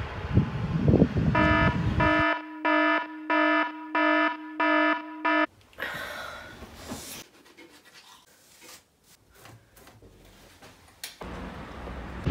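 A smartphone alarm beeping about twice a second, which cuts off abruptly after about four seconds as it is silenced. A quiet room with faint rustles follows. Wind buffets the microphone at the start and again near the end.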